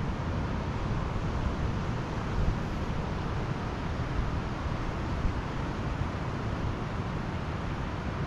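Steady rush of Pacific Ocean surf, with wind rumbling on the microphone.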